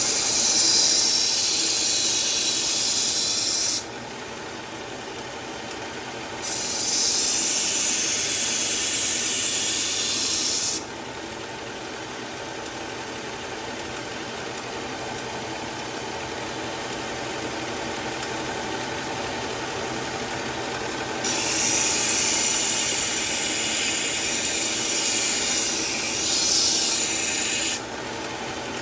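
Powered knife sharpener grinding a kitchen knife's edge in three passes, each a few seconds of high, hissing abrasive grind, the last one the longest. A steady machine hum runs underneath between the passes.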